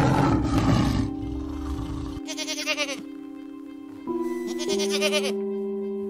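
A tiger's roar dies away in the first two seconds, then a goat bleats twice in short, quavering calls, over steady background music.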